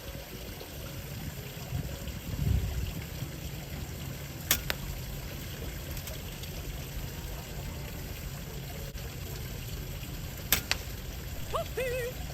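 Two sharp shots from a .22 FX Maverick PCP air rifle, about six seconds apart, over a steady rushing background. A voice starts briefly near the end.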